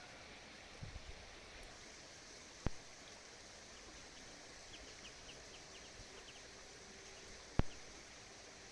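Steady outdoor background noise with two sharp knocks, about three seconds in and near the end, and a run of faint short high chirps in between.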